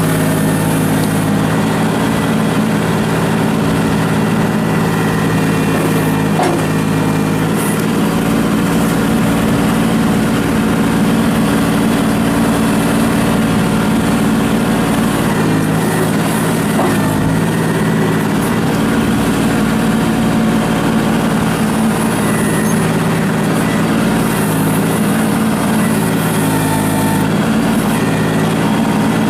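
Kubota L39 tractor's diesel engine running steadily.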